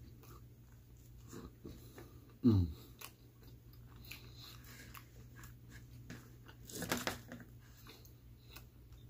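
A person chewing a mouthful of frozen pepperoni pizza, with small crunching and wet mouth noises. About two and a half seconds in comes a short hum that drops in pitch, the loudest sound. A louder burst of mouth noise follows around seven seconds in.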